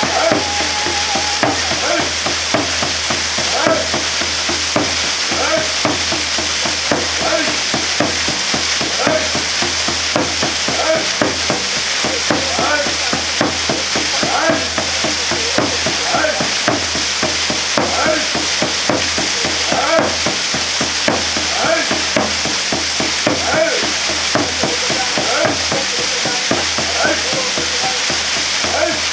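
Waterfall pouring steadily, with water spattering and splashing in quick irregular bits over the steady rush.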